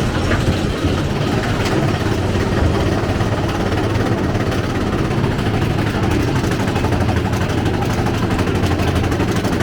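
Mine-train roller coaster running along its track: a loud, steady low rumble.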